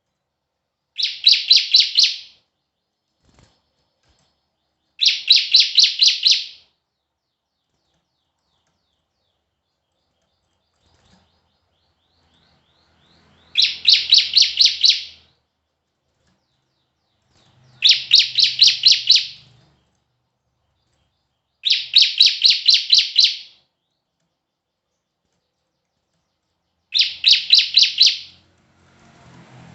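Songbird song: a rapid run of about six sharp, high chirps lasting about a second and a half, repeated six times with silent gaps of a few seconds between runs.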